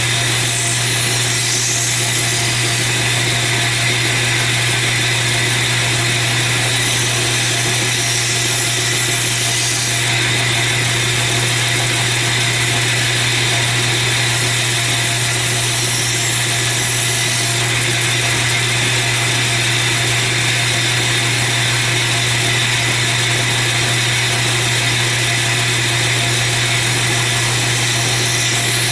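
Belt grinder running steadily with a 100-grit belt while a steel straight-razor blade is ground against it to put on the edge. The hiss of the grinding gets stronger about ten seconds in.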